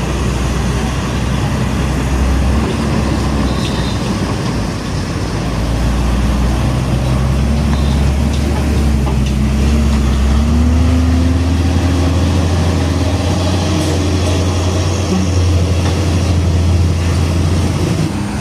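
Heavy diesel truck engine running with a low drone over road traffic noise; the engine note climbs slowly about two-thirds of the way through.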